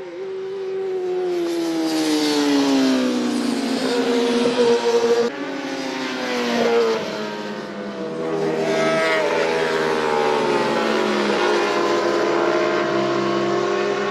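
Several racing motorcycles running at speed, their engine notes overlapping and repeatedly falling in pitch as they pass by.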